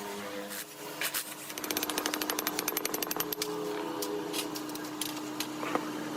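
A small power tool running with a steady hum, and from about a second and a half in a fast, even rattle of hard strikes on metal.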